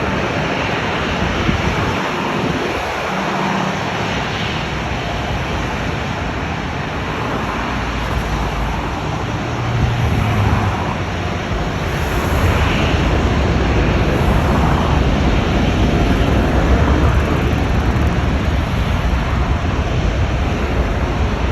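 Boeing 787-8 Dreamliner jet airliner's engines, a steady rushing noise that grows louder and deeper about halfway through as the aircraft comes nearer.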